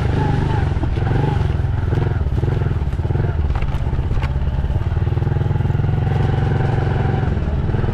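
Dirt bike engine running steadily at low revs, close by, with a couple of sharp clicks a little past the middle.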